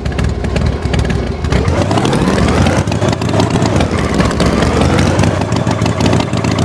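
Tractor engine running with a fast, rough firing rhythm, its pitch wavering slightly up and down. It starts suddenly after a moment of silence.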